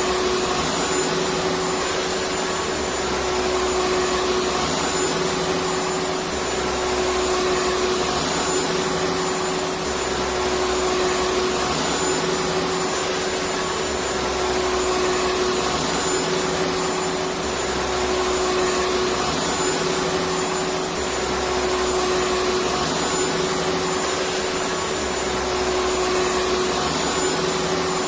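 Vacuum cleaner running steadily: an even rushing noise with one held tone in it, rising and falling slightly in level every few seconds.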